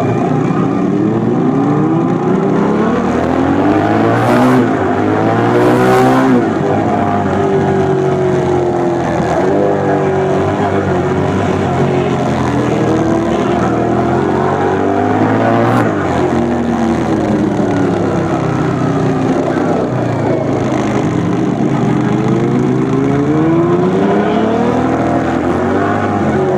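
2004 Suzuki SV1000S V-twin engine through a LeoVince SBK aftermarket exhaust, under way with the revs repeatedly climbing and dropping back as the bike accelerates and shifts through the gears. A few brief sharp noises cut across the engine sound.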